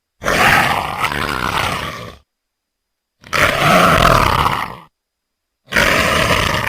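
A big cat roaring: three separate roars of one to two seconds each, with dead silence between them; the third runs on past the end.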